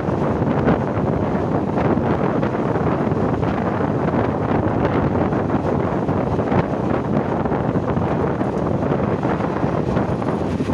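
Wind buffeting the microphone at the open door of an express passenger coach running at speed, over the steady rumble of the train on the track.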